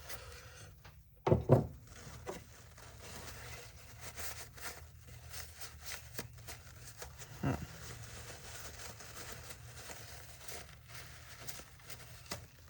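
Paper towel rubbing and crinkling as it wipes dust out of a power drill's plastic housing, with light scuffs and clicks. A brief voice sound stands out about a second in, and a fainter one midway.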